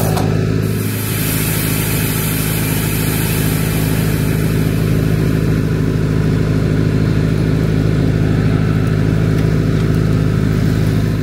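Heavy diesel truck engine running at a steady speed, a deep even drone, with a hiss over it for the first few seconds.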